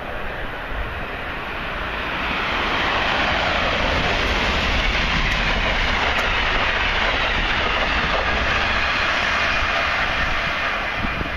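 Passenger train passing the platform at speed, its wheels and cars rushing along the rails. The noise builds about two seconds in, stays loud for several seconds, and eases off near the end.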